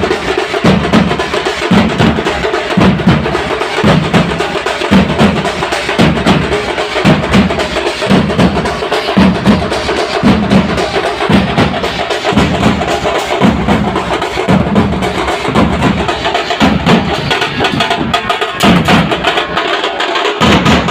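Drums being played in a steady rhythm: low drum strokes about twice a second, with quick sharp strokes filling the gaps between them.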